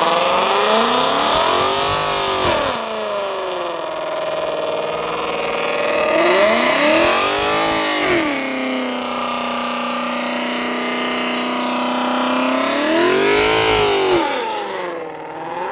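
A car engine revved hard: the revs sweep up and back down three times, holding steady at high revs in between.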